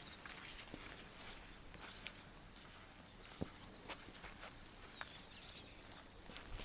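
Faint outdoor ambience with a bird giving a few short, high chirps and some scattered soft clicks.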